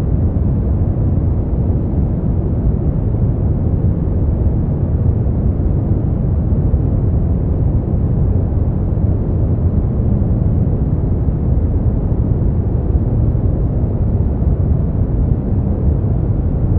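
Steady generated sleep noise, sold as white noise but weighted heavily toward the low end: an even, deep rush with little high hiss and no changes.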